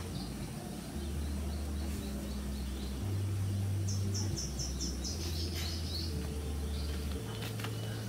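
A bird gives a quick run of about six high chirps about four seconds in, over a low hum of steady bass notes that step in pitch every second or so. A few faint clicks come near the end.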